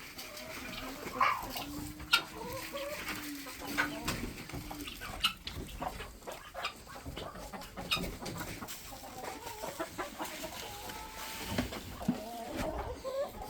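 A flock of chickens clucking and calling, with one long, low drawn-out call about two seconds in and many short sharp ticks throughout.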